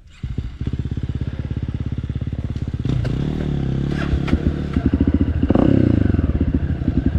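A 250cc four-stroke dirt bike engine comes in abruptly about a quarter second in, running with even firing pulses, then revs up from about three seconds in as it pulls away. A couple of sharp knocks come around four seconds in.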